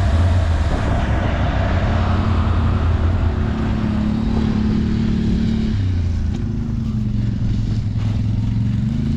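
ATV engine running under throttle; its pitch shifts up and down and climbs near the end.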